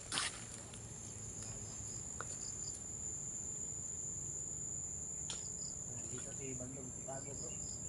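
Insects trilling: one steady, unbroken high-pitched note that holds without change. A small click sounds about five seconds in.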